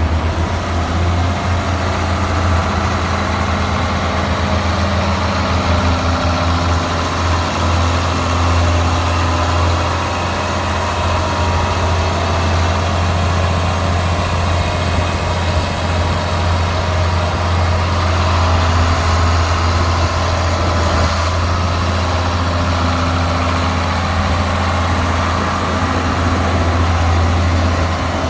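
John Deere 7700 tractor's diesel engine idling steadily.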